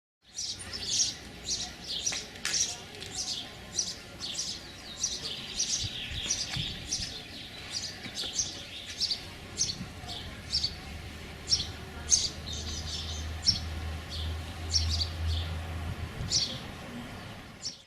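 Small bird chirping repeatedly: short, high chirps, roughly two a second, with a low steady hum joining in the second half.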